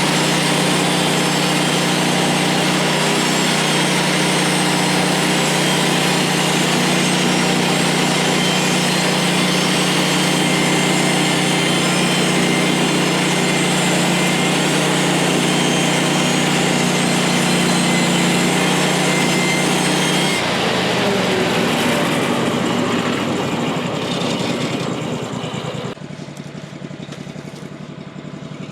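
Woodland Mills HM136MAX portable bandsaw sawmill's gas engine running hard at a steady pitch as the band blade cuts through a pine log. About two-thirds of the way through, the engine slows and winds down, and the sound gets quieter over the last few seconds.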